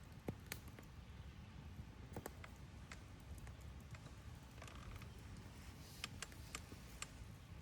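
Wood fire crackling: irregular sharp pops and snaps, a few louder than the rest, over a low steady rumble.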